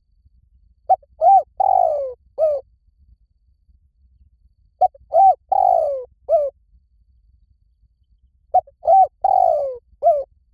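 Spotted dove cooing: three calls about four seconds apart, each a short note, a second note, a longer note falling in pitch, and a short closing note.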